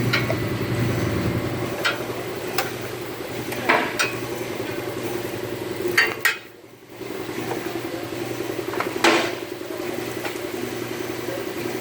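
Vehicle lift's electric hydraulic pump motor humming steadily while it raises the car body off the engine and subframe. It cuts out briefly a little past the middle, then starts again. Several metallic clanks and knocks are heard throughout.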